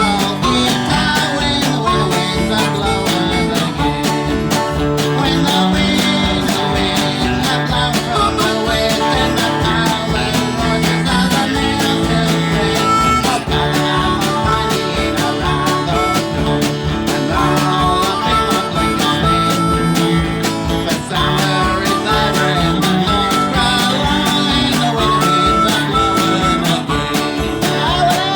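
Acoustic country band playing an instrumental passage: guitar and harmonica over a steady strummed beat.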